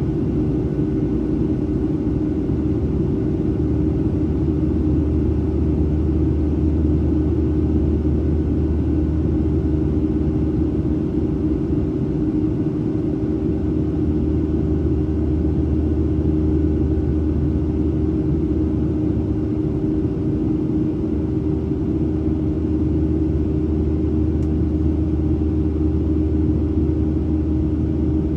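Cabin noise inside a Boeing 737-700 in flight: the steady drone of its CFM56-7B turbofan engines and the airflow, a low rumble with a constant hum.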